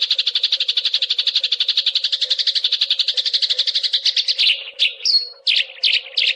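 Eurasian tree sparrow song: a fast, tight run of rapid chirps that breaks into a few separate chirps near the end, over a faint steady hum.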